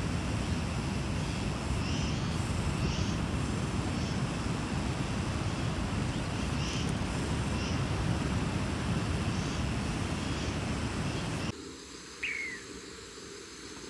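Steady outdoor background noise with faint bird chirps now and then. It cuts off abruptly near the end, and a single short falling chirp follows in the quieter scene.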